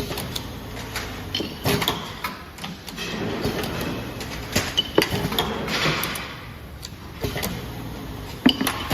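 Factory floor noise: irregular clicks, knocks and clatter of parts being handled, over a steady low machinery hum.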